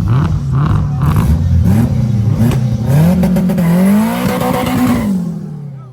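A car engine revving hard as the car accelerates through several gears, its pitch climbing and dropping back at each shift, with sharp cracks early on. It then fades away as the car pulls off.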